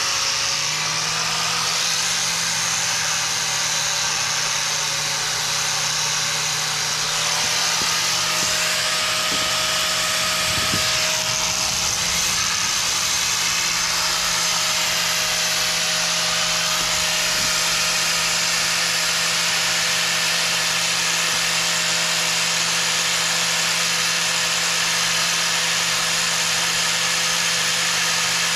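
Angle grinder fitted with a stiff wire cup brush, running steadily as it scrubs stubborn old undercoat off the machine's metal in preparation for painting. A steady motor whine sits over a wide scratching hiss, and the pitch shifts slightly about a second in and again about seven seconds in.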